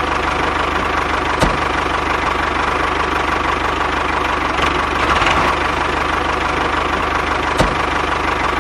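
The motor of a DIY miniature tractor running steadily, with a fast even knock and a faint steady whine. There are two short clicks, one about a second and a half in and one near the end.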